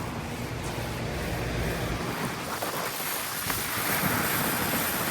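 Lennox central air conditioner outdoor units running: a steady rush of condenser-fan air over a low, even hum from the scroll compressors.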